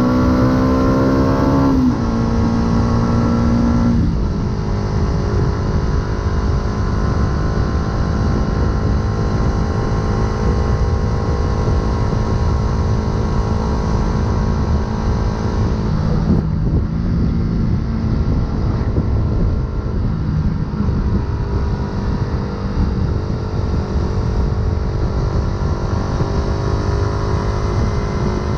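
Yamaha YZF-R125's single-cylinder four-stroke engine through an aftermarket full exhaust, under way at fairly steady revs. The note eases off about four seconds in and changes briefly around the middle, with small throttle changes otherwise.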